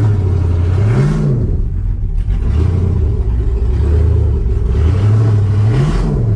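GM LS V8 in a swapped Toyota Tacoma idling steadily, with a short throttle blip about a second in and another near the end.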